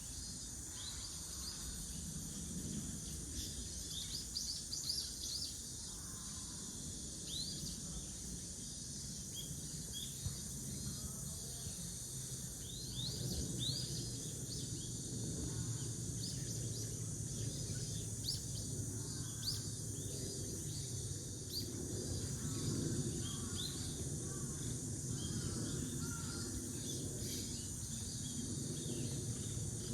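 Outdoor park ambience: short, quick bird chirps scattered throughout, over a steady high-pitched insect drone and a low background rumble that grows a little louder about halfway through.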